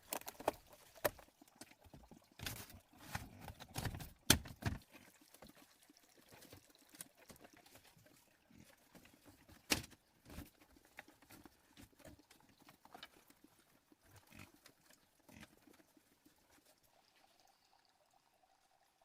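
Irregular clicks, knocks and rustling, busiest in the first few seconds, with a sharp knock about four seconds in and another near ten seconds, then thinning out to faint scattered ticks.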